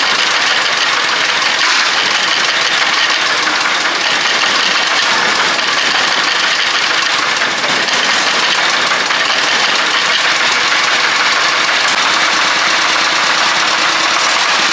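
An engine running steadily at an even speed, loud and unchanging throughout.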